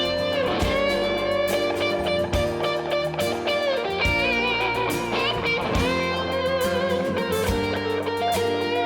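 A live band playing, led by an electric lead guitar soloing with bent notes and vibrato over drums and bass.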